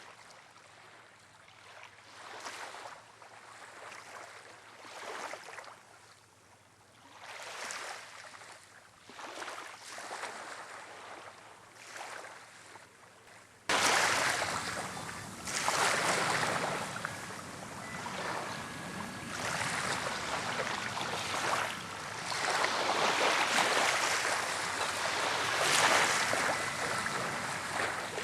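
Waves washing ashore on a windy day, coming in repeated surges a second or two apart, with wind noise. About halfway through the sound suddenly becomes much louder and stays that way.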